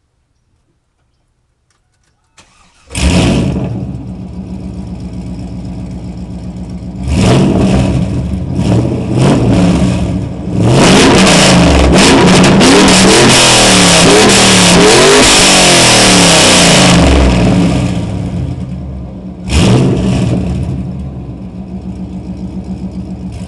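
A 2000 Pontiac Trans Am WS6's 5.7-litre LS1 V8, running long-tube headers and straight pipes with no catalytic converters or mufflers, starts up about two and a half seconds in and idles, very loud. It is revved in several short blips, then held high for about six seconds before falling back, then blipped once more and left to idle.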